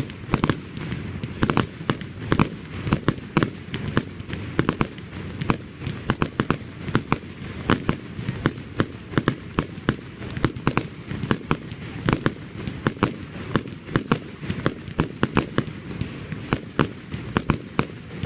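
Fireworks going off in a rapid, irregular series of sharp bangs, several a second.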